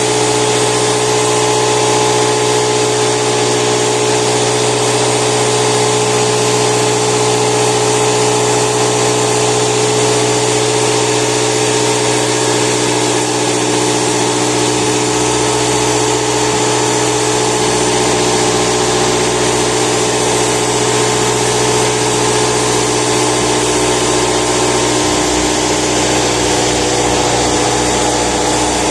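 Compressor running steadily: a loud, even mechanical drone with constant steady tones and no change in speed.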